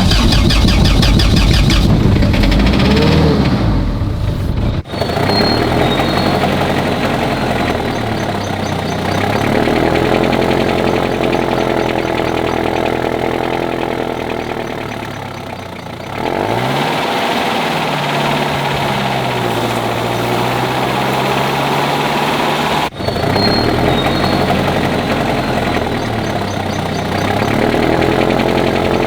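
Rebuilt Lanos car engine running and being revved, its pitch rising and falling several times. The sound breaks off abruptly about five seconds in and again near 23 seconds.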